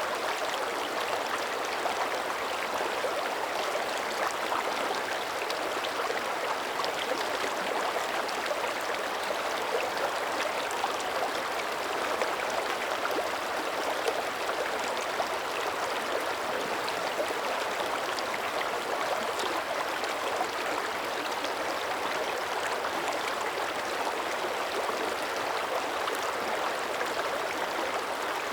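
Shallow mountain creek running steadily over rocks, a continuous rush of water with fine splashing and gurgling.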